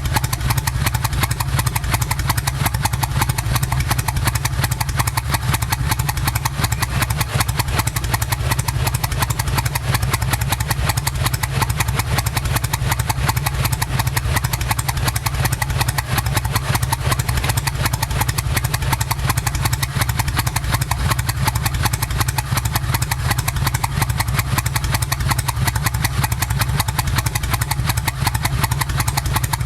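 Kawasaki Vulcan 1500 Nomad's V-twin engine idling steadily through aftermarket exhaust pipes, Cobra on the front cylinder and Vance & Hines on the rear, with a deep, even pulsing beat.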